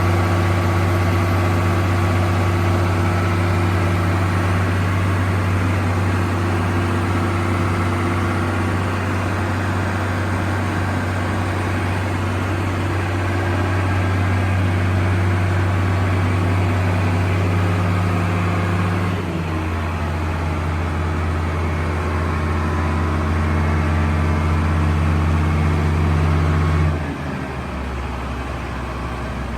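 Case IH Axial-Flow combine's diesel engine running steadily, throttled down in two steps: its pitch drops a little about two-thirds of the way through, then drops more sharply near the end as it settles to a lower idle.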